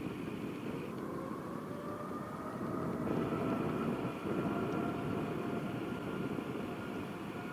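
Jet airliner engines running with a steady rumble and a faint whine that rises a little in pitch over the first few seconds, then holds.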